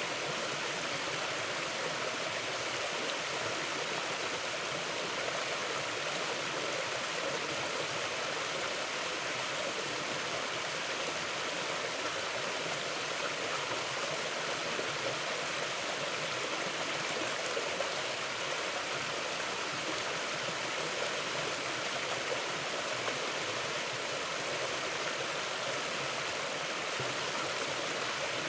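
A river running steadily over rocks: an even, unbroken rush of water.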